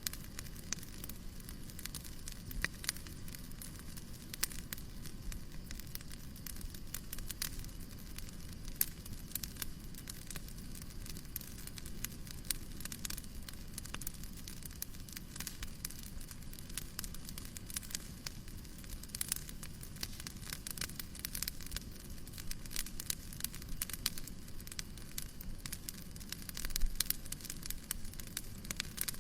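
Fireplace crackling, with irregular sharp pops and snaps over a steady hiss and low rumble, and a louder pop near the end.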